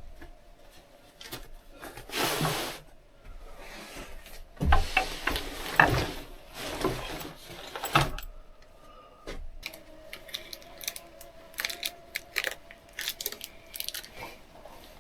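Wood being handled and worked: irregular knocks and scrapes, with a cluster of heavier knocks in the middle, then lighter clicks and taps.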